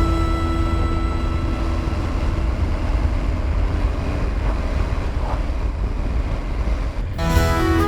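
Motorcycle riding noise: a steady low rumble of wind buffeting the microphone over the Triumph Tiger 900 GT Pro's running engine. A held music note fades out in the first second, and music starts again about seven seconds in.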